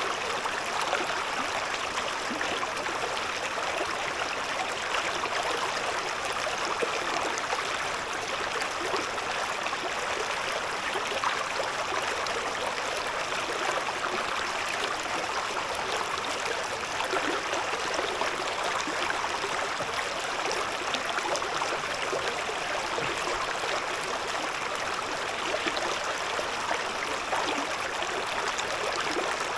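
Shallow river babbling and gurgling over stones, a steady, even rush of running water.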